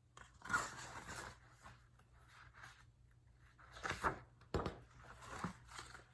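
Pages of a picture book being turned and handled: several soft paper rustles, with a sharp knock a little past the middle.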